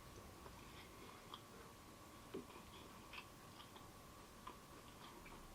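Faint close-up chewing of a crispy old-fashioned donut: soft scattered crunches and mouth clicks, one a little louder about two seconds in.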